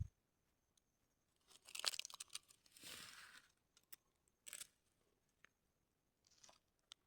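Faint rustling and crackling of something dry being handled, strongest from about one and a half to three and a half seconds in, followed by a few short, soft rustles and clicks.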